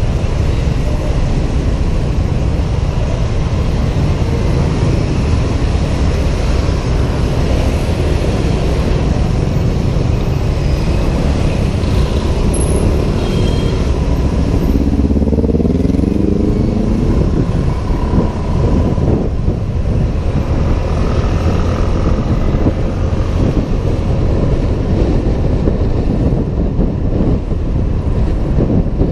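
Ride on a Honda PCX 125 scooter in city traffic, heard from a helmet camera: a steady low rumble of wind and road noise with engine and traffic sound. An engine note rises in pitch around the middle, as a vehicle accelerates.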